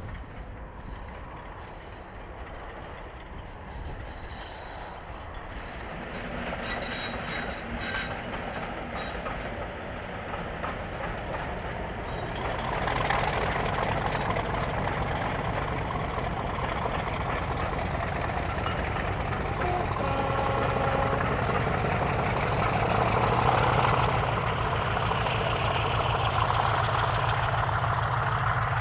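Diesel locomotive hauling a train, growing steadily louder as it approaches, with wheels clicking over rail joints and the engine's low, steady beat building through the second half.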